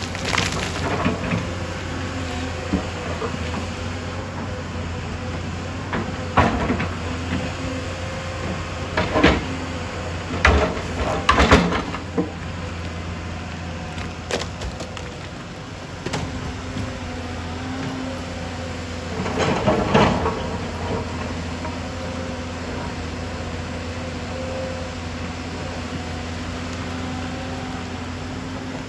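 Excavator's diesel engine running steadily, with several loud clanks and scrapes of metal against rock and soil.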